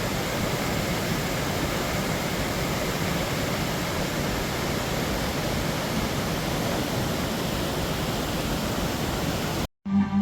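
A waterfall rushing steadily, then cutting off abruptly near the end.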